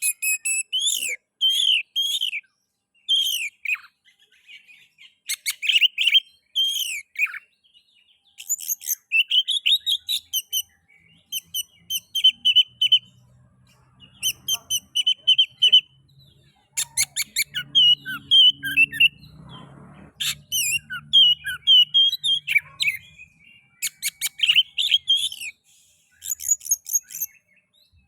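Oriental magpie-robin (kacer) singing: phrase after phrase of varied whistles and harsher chattering notes, each lasting a second or two, with short pauses between.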